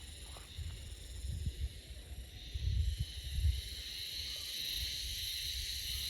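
Steady high-pitched insect chorus, with wind gusting on the microphone as a low rumble that is strongest about halfway through.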